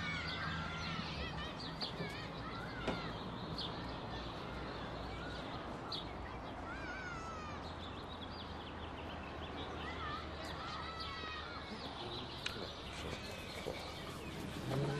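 Small birds chirping and singing at intervals over a steady low background hum of open-air ambience, with a couple of faint knocks.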